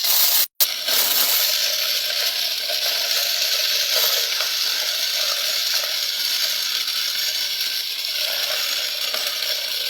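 Homemade toy tractor-thresher running steadily: an even hiss with a faint wavering whine, broken by a brief dropout about half a second in.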